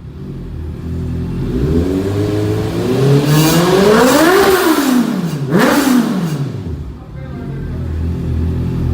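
Motorcycle engine revved through its exhaust from idle: one long rise and fall in pitch in the middle, a quick second blip right after, then back to a steady idle.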